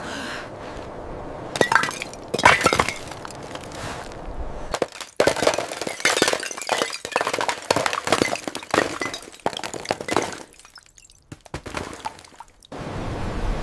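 Many sharp cracks and clinks of something brittle breaking, coming in quick clusters, then stopping. A steady hiss comes in near the end.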